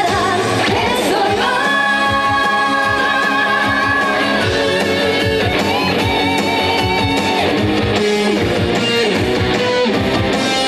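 Live trot song with a band: a female voice holds long notes with vibrato over electric guitar and a steady drum beat.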